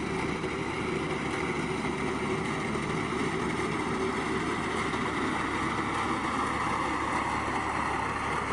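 Small engine of a farm machine running steadily at constant speed, an even hum over a steady rush of noise.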